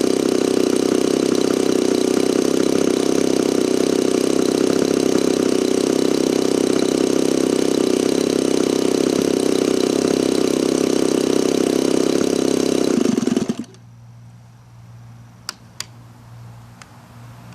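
DLE 35RA single-cylinder two-stroke gasoline engine on a model airplane running steadily, then winding down and cutting off abruptly about thirteen and a half seconds in. Afterwards only a faint low hum and two sharp clicks.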